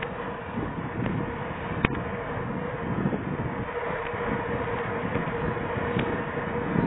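Steady rushing wind and tyre noise from riding a mountain bike, heard on a small camera microphone, with one sharp click a little under two seconds in.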